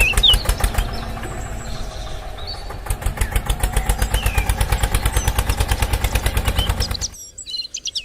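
Small engine of a DIY mini tractor running with an even, rapid chugging of about ten beats a second, cutting off suddenly about seven seconds in.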